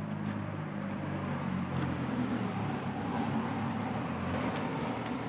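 A motor vehicle's engine running: a steady low hum with road noise.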